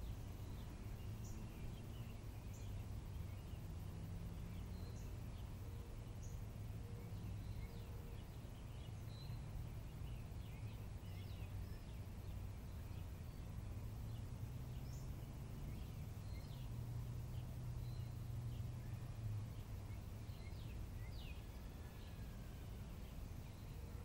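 Wild birds calling and chirping now and then, short high notes scattered throughout, with a few longer falling calls near the end, over a steady low rumble.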